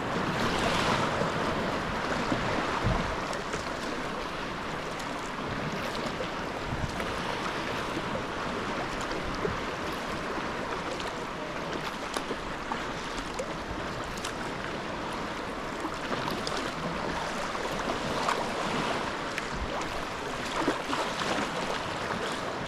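Steady sea-water splashing and sloshing around a sea kayak under paddle, with wind buffeting the microphone.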